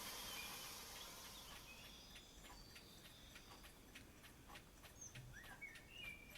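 Faint birdsong, short chirps and gliding whistles, over a regular light ticking about three times a second, while a background hiss fades away.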